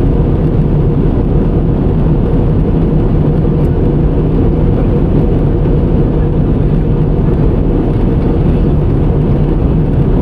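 Steady low rumbling noise of an airliner's engines and airflow, heard inside the passenger cabin as the plane descends toward landing.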